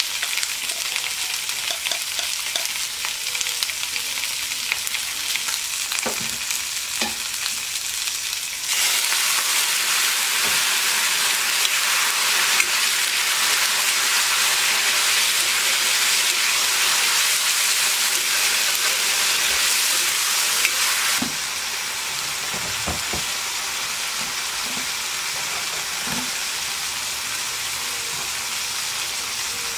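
Quail meat frying in oil in an iron kadai, sizzling steadily, with a metal spoon stirring and knocking against the pan now and then. The sizzle grows clearly louder for about twelve seconds in the middle, then settles back.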